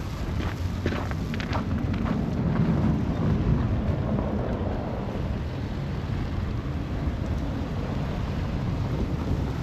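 Strong storm wind buffeting the microphone as a continuous low rumble that swells a couple of seconds in. Footsteps crunch in snow during the first second or so.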